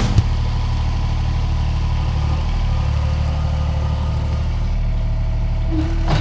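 Skid steer's engine running steadily at a low, even drone.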